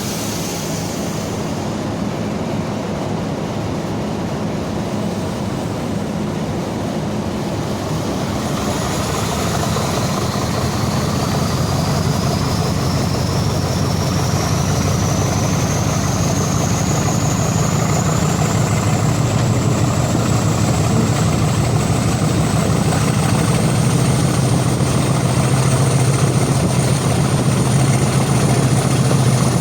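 Class 50 diesel locomotive's English Electric 16CSVT V16 engine running steadily and slowly growing louder. From about a third of the way in, a high whine rises steadily in pitch.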